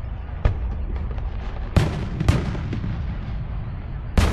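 Fireworks shells bursting: several sharp bangs, the loudest near the end, over a continuous low rumble of further explosions.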